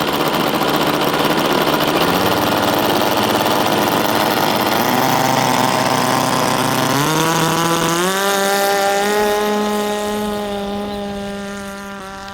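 Small .049-size Wankel rotary model aircraft engine running. Its pitch steps up twice, about seven and eight seconds in, then holds a steady high whine as the sound grows fainter near the end.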